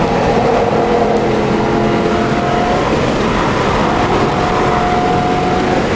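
Ford Mustang V8 engine heard from inside the cabin while being driven hard, its note holding and then shifting pitch a few times with the throttle, over steady wind and road noise.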